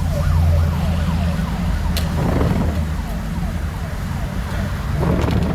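A car alarm siren sounding in quick falling sweeps, repeated over and over, over the steady low rumble of a car being driven.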